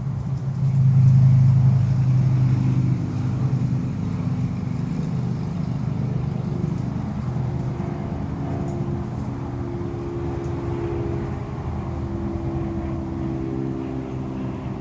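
An engine running with a steady low hum, loudest a second or two in. A higher, fainter tone wavers in pitch through the rest.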